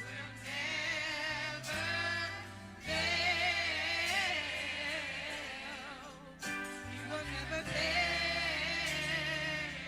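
Gospel choir singing with vibrato over accompaniment that holds low sustained notes, changing pitch a few times.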